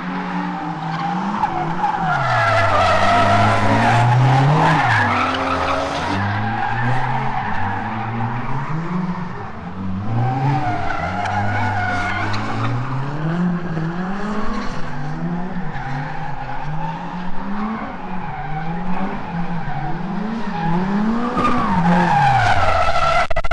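LS1 V8 of an MX-5 drift car revving up and down again and again through a drift, with tyres squealing. The squeal is loudest from about two to six seconds in and again near the end.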